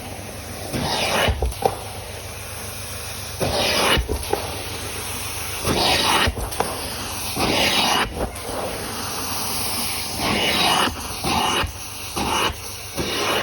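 Carpet extractor wand spraying and sucking in repeated strokes across the carpet. Each hissing surge lasts one to two seconds, with short breaks between strokes, over the steady run of the machine.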